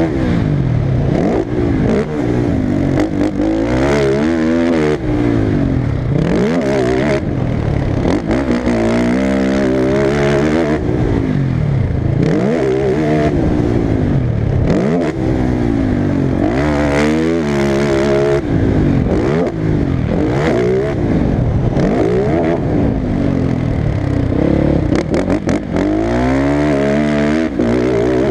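Motocross dirt bike engines revving hard, their pitch climbing and dropping again every second or two with throttle and gear changes, at times more than one bike at once.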